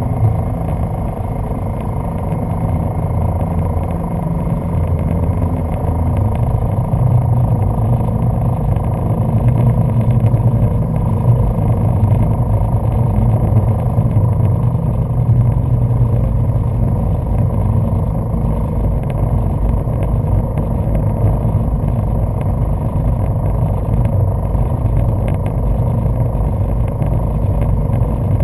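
1995 Sea-Doo Speedster jet boat's engines running steadily under way, a low drone that builds somewhat in the middle and then eases a little.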